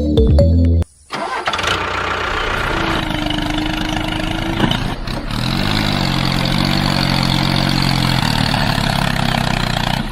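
Background music cuts off about a second in, then an engine starts up and runs steadily.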